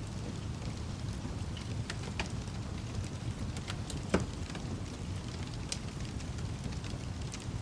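Wood fire crackling, with scattered sharp pops and one louder pop about four seconds in, over a steady wash of rain with a low rumble.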